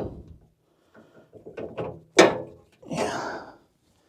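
Knocks and clicks of hands and metal parts working at a plug on top of a snowblower gearbox, with one louder knock about two seconds in.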